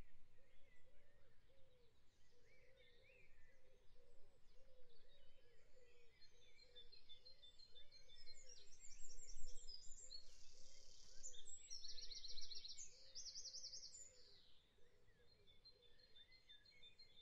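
Faint birdsong over a quiet background: quick, high chirps and trills, loudest about halfway through, with a low repeating call beneath.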